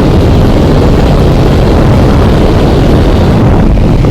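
Motorcycle running at speed with its engine held at high revs, around 8,000 rpm, which the rider finds lower than usual for this pace. The steady engine sound is mixed with a heavy rush of wind on the helmet microphone.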